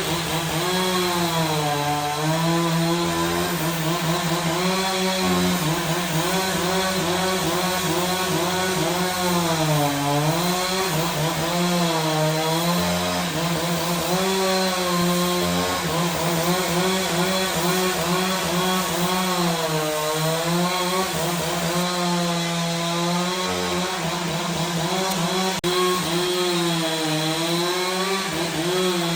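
Chainsaw cutting through a large log, running at high speed. Its engine pitch sags and recovers several times as the chain bogs down in the cut.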